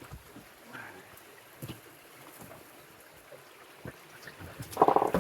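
Faint running creek water with scattered snaps and rustles of brush underfoot, then a short, loud, pitched voice-like cry near the end.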